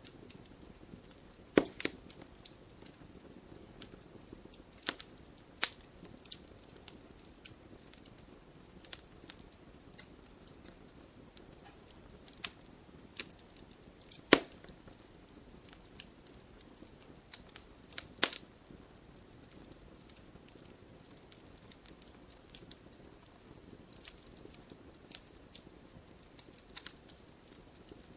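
Wood fire crackling in a fireplace: irregular sharp pops and snaps, a few much louder than the rest, over a soft steady hiss of burning.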